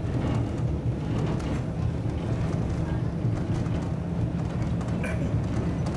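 Heritage railway carriage running along the track, heard from inside: a steady low rumble with scattered clicks and knocks, one sharper knock about five seconds in.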